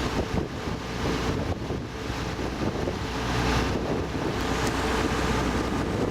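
Motorboat engine running steadily while under way, with wind buffeting the microphone.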